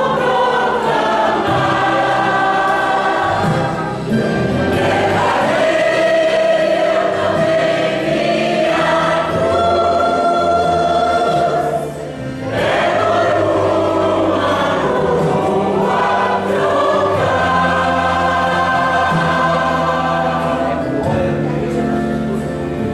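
Choir singing a gospel song, holding long sustained notes, with a brief drop between phrases about twelve seconds in.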